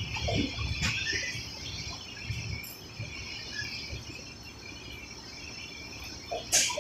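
Steady, high-pitched chirring of insects, with a few low thumps and a sharp click near the end.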